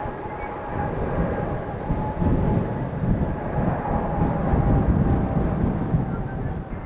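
Jet airliner's engines running: a steady low rumble with a thin, constant whine above it that swells a little about halfway through.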